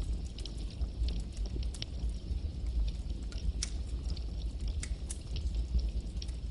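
Wood fire burning, with frequent small crackles and sharp pops over a steady low rumble of the flames.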